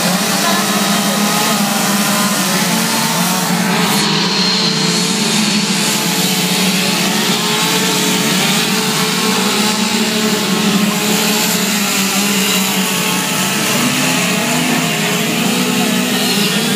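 Two-stroke chainsaw running at high speed, cutting into wood for a carving, its pitch wavering slightly up and down as the cut loads it.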